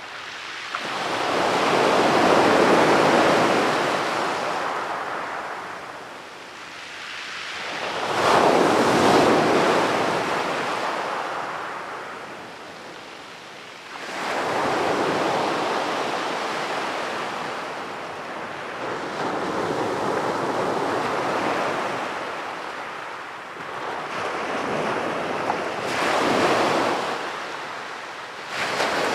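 Sea waves breaking and washing up a sandy beach, a fresh surge every five or six seconds, each swelling up and then fading away.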